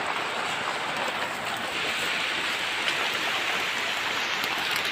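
Steady hiss of water, an even rush with no distinct splashes or drips.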